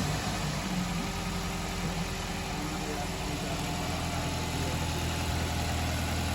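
Toyota Corolla GLi engine idling steadily just after starting, its valve tappets freshly adjusted.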